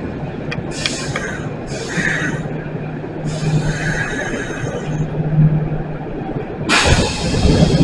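Kintetsu 8600 series electric train slowing to a stop at a platform, with a steady low rumble and a few short, high-pitched hissing squeals as it brakes. Near the end, a loud burst of air hiss comes as the doors open.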